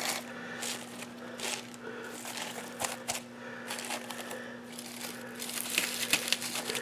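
Crinkling and rustling handling noise in short, irregular bursts, as a sheet is handled and pressed on, over a faint steady hum.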